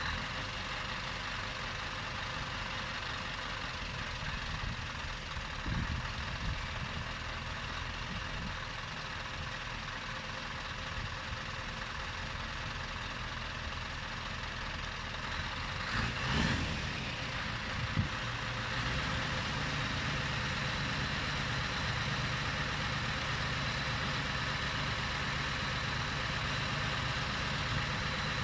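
Scania V8 diesel engine idling steadily, with a brief swell in level about halfway through.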